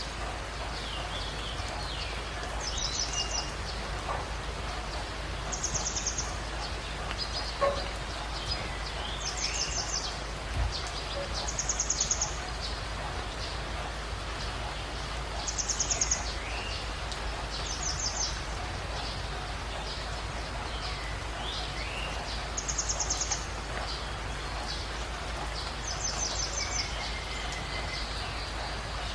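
A chorus of birds calling over a steady hiss of ambient noise. A short, rapid, high-pitched trill repeats every few seconds, mixed with scattered short whistled calls, some falling in pitch.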